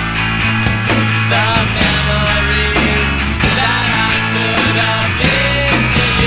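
Loud rock music from a full band: electric guitars and bass over steadily struck drums.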